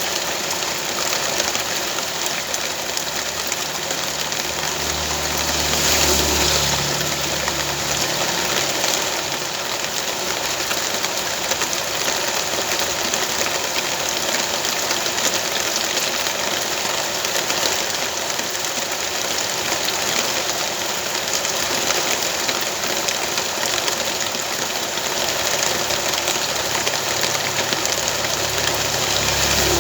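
Steady hiss of falling rain, with a motor engine running low underneath that swells a few seconds in and again near the end.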